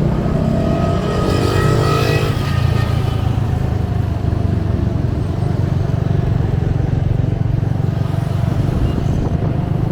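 Steady engine and road noise of a small motor vehicle on the move through town, with a higher engine note climbing briefly about a second or two in.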